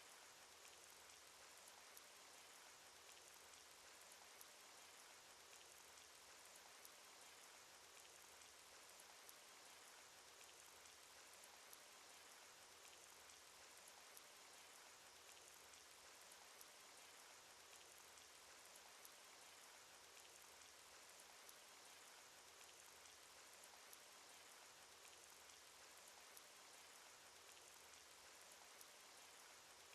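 Faint, steady cartoon rain sound effect: an even hiss of rainfall with many small, rapid drop ticks, unchanging throughout.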